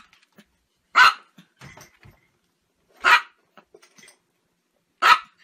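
A Chihuahua barking: three short, sharp, high yaps about two seconds apart.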